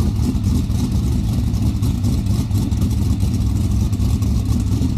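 Sprint car V8 engine running steadily on its first start-up after a build, a loud, even, rapid firing with no rises or falls in revs.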